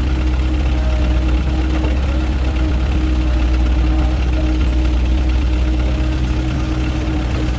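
An engine running steadily at an even speed, with a constant low rumble and hum.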